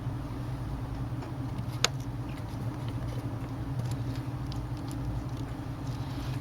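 Steady low background hum with one sharp click about two seconds in and a few faint ticks, typical of small tools on a repair bench.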